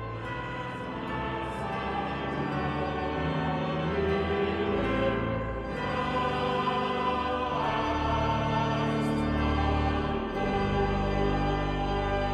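Choral music: a choir singing held chords that change every second or two.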